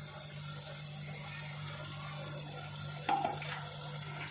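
Onion-tomato masala sizzling steadily in a frying pan as the wet ground paste is added, with a short sharper sound about three seconds in.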